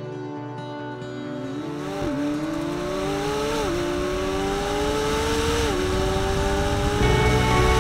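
McLaren Senna's twin-turbo V8 accelerating hard through the gears: the engine note climbs, then drops sharply at each of three upshifts, and each gear is held longer than the last. Background music plays underneath.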